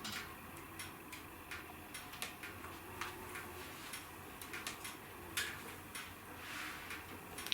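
Wood fire burning in a fireplace: irregular sharp crackles and pops, several a second, with a brief soft hiss near the end.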